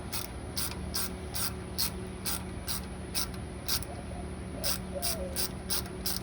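Ratchet wrench clicking as it backs out a water-pump bolt, with about two to three clicks a second, over a steady low hum.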